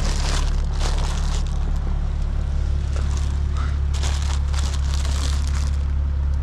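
Lexus IS350's 3.5-litre V6, breathing through a catless mid-pipe and muffler-deleted exhaust, idling as a steady low drone. Over it come intermittent crinkling and rustling of mail being handled.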